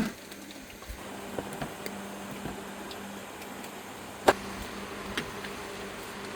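A steady low hum, with scattered light clicks and one sharp knock about four seconds in.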